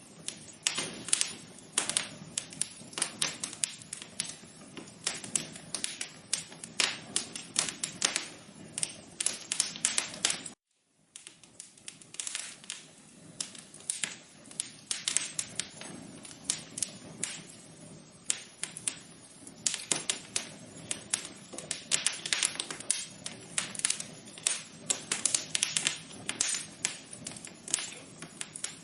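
Wood fire crackling in an outdoor fireplace: a dense run of irregular sharp pops and snaps over a soft hiss. The sound cuts out completely for about half a second roughly ten seconds in, then the crackling resumes.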